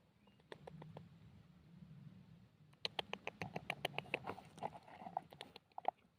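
Quick, irregular clicks and snaps as a hungry kingfisher chick is fed a frog. The clicks come sparsely at first and grow dense and louder from about three seconds in.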